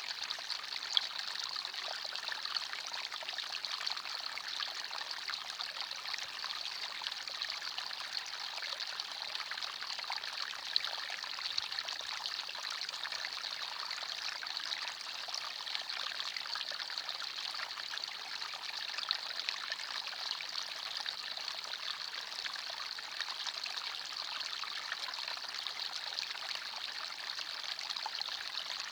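A small forest stream running steadily over stones, a continuous trickling and splashing of water with occasional brighter drips.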